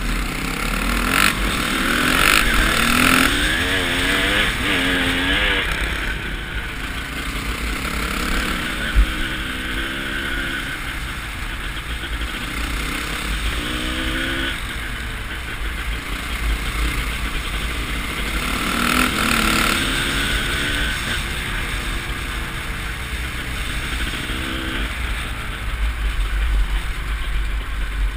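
Honda CR250's two-stroke single-cylinder engine revving up and falling back again and again as the dirt bike is ridden hard off-road, heard from a helmet camera over a steady low rumble. A single sharp knock about nine seconds in.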